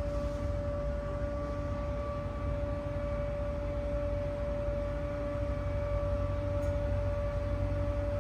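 Machinery running steadily: a constant single-pitch whine over a low rumble.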